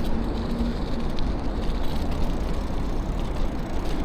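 Steady low rumble of wind on the microphone and tyre noise from a bicycle riding along.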